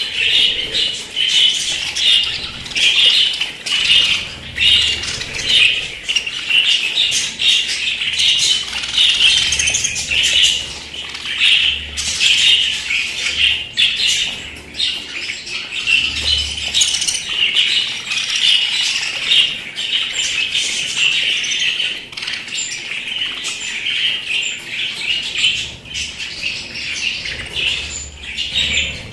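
Pet budgerigars chattering and warbling without a break, with many short clicks and rustles mixed in.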